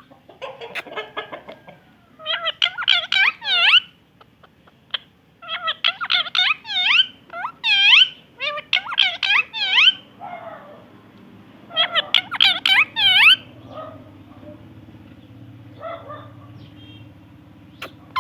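Parrot calling in quick runs of sharp, rapidly repeated notes, in about four bouts with short pauses between.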